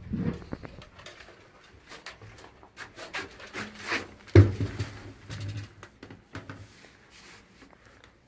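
Handling noise of someone rummaging for a flashlight: scattered clicks and knocks, with one loud thump about four and a half seconds in.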